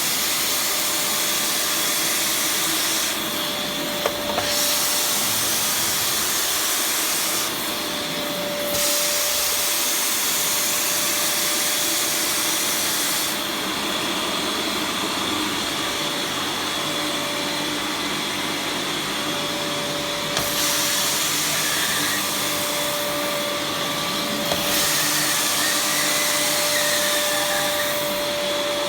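Beam Limatic steam vacuum cleaner running steadily, a constant suction rush with a steady hum. Several times its high hiss dulls for a second or longer, and there are a few light clicks.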